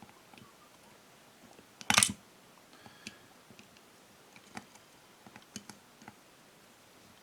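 Light clicks and ticks of small carburetor parts and tools being handled, with one short, loud clatter about two seconds in.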